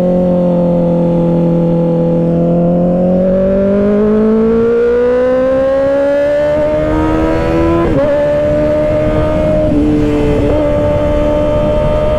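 Kawasaki Ninja ZX-6R 636's inline-four engine with an M4 aftermarket exhaust pulling under acceleration, rising steadily in pitch for several seconds, then a quick upshift about eight seconds in, after which it holds a steady note. Wind rush runs underneath.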